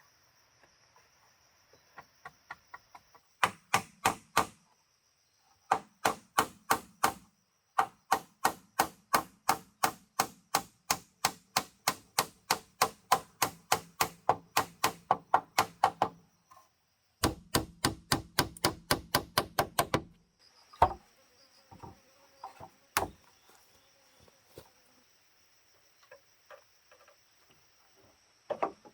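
Fast, even chopping with a blade, about three to four strokes a second, in long runs broken by short pauses, then a few scattered knocks.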